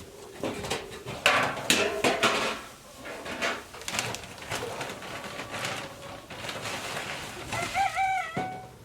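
Farmyard noises: a run of knocks and rustles, then a short wavering animal call near the end.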